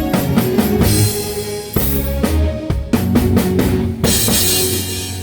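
Live band playing, drum kit to the fore with bass drum and snare hits over sustained instruments. About four seconds in the band hits a crash and holds a sustained chord.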